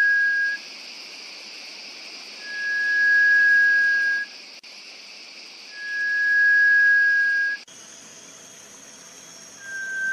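A bird's long, pure whistled note held at one steady pitch for about two seconds, repeated at even intervals with pauses of a second or two between, over a steady high hiss.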